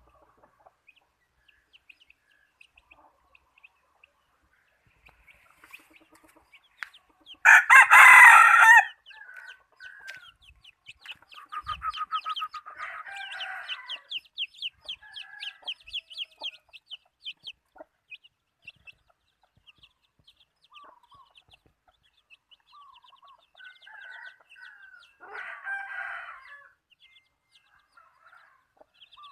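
Decoy red junglefowl rooster crowing once, loud and short, about seven seconds in. It follows with a long run of quick clucking calls, and gives another shorter call near the end.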